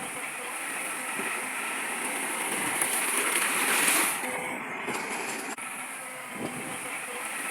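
Heavy earthmoving machinery at work, a rushing noise that swells to a peak about four seconds in and then falls back.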